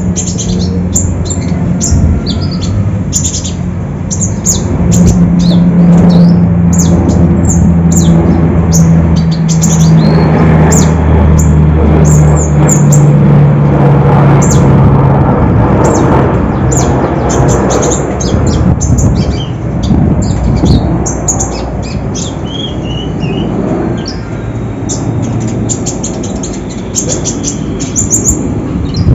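Konin songbird singing a fast, dense string of sharp chirps and trills. A steady low drone runs underneath from about five to sixteen seconds in.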